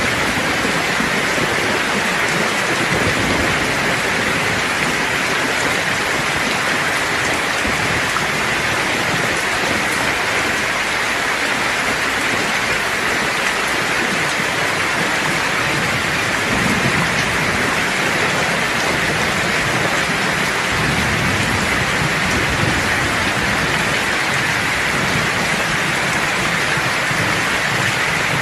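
Steady, heavy rain hissing, with low rumbles of thunder in the second half.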